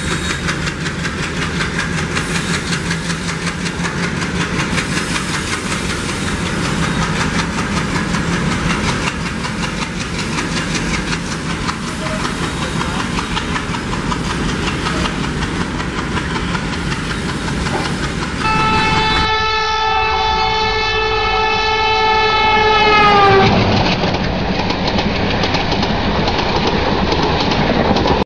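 Long car-carrier freight train of BCACBM wagons rolling past, its wheels clattering steadily over the rail joints. About 18 seconds in, the sound changes and a single train horn blast holds one note for about four and a half seconds, dropping in pitch as it ends, then rushing rail noise continues.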